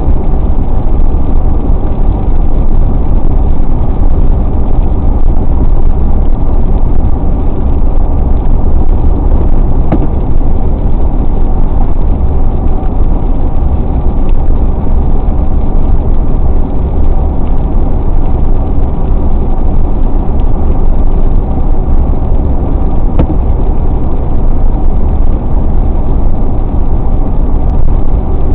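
Steady road noise of a car driving at speed, heard from inside the cabin: a constant low drone of tyres and engine with no change in pace.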